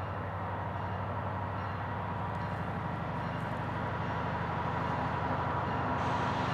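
EMD diesel-electric freight locomotives running with a steady low engine drone that grows slowly louder as the train approaches.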